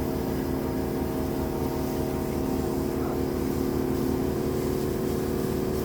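An engine running steadily: a constant hum over an even low throb.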